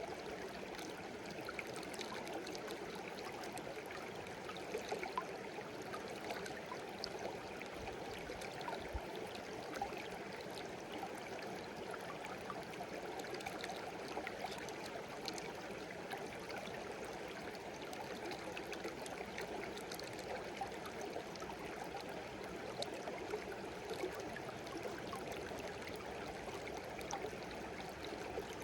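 Small stream babbling steadily, with many brief splashes and plinks scattered through the flow.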